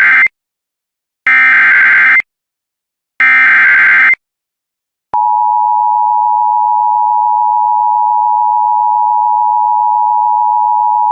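Emergency Alert System SAME header: short bursts of warbling two-pitch digital data tones about a second apart, the first already under way and two more following. After about a second's gap, a long steady attention tone begins at about five seconds, announcing an incoming severe thunderstorm warning.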